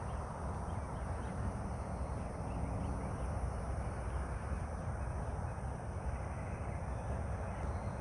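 Open-air morning ambience: a steady low rush with faint bird calls scattered over it.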